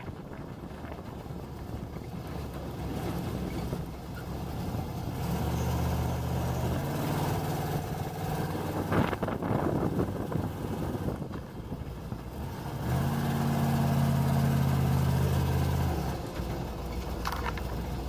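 Monster truck's small-block Chevy V8 running, swelling under throttle twice, about four seconds in and again about thirteen seconds in, and easing off between, with a thump near the middle.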